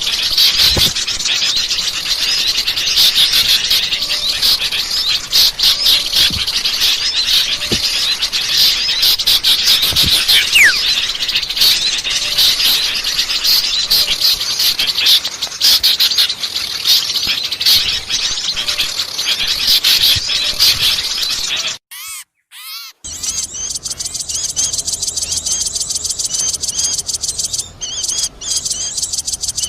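Bird-lure recording of many small songbirds chattering and chirping noisily at once, dense and continuous. It cuts out briefly about 22 seconds in and resumes with a different, more regular high-pitched chirping.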